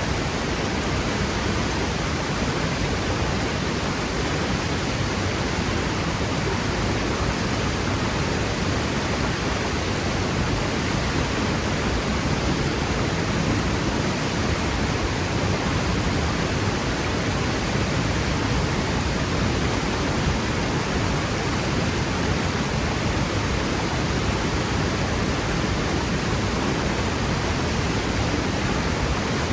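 Waterfall pouring into a plunge pool: a steady, even rush of falling water with no breaks.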